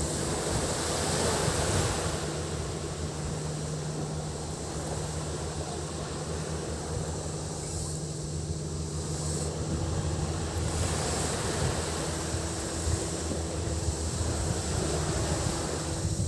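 Sea waves washing onto a beach, swelling about a second in, over a steady high drone of cicadas and a low steady hum.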